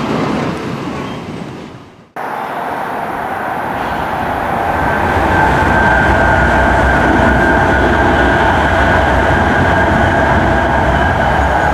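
A JR 521 series 100-subseries two-car electric train arriving at the station. The sound fades and cuts off abruptly about two seconds in. A steady rumble with a steady whine then builds and holds.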